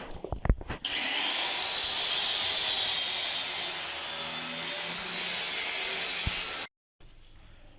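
A motorised power tool running steadily with a high whine over a hiss, starting about a second in after a few clicks and cutting off abruptly near the end.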